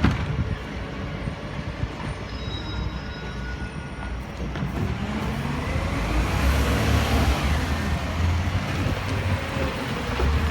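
Garbage truck's diesel engine running, its low rumble growing louder about halfway through, with road noise.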